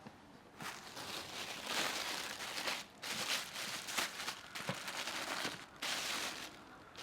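Crinkling, rustling noise in four bursts of one to two seconds each, with short breaks between them.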